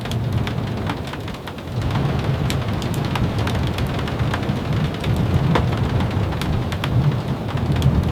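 Steady rain with a low rumble of thunder that swells about two seconds in and keeps rolling, and scattered sharp ticks throughout.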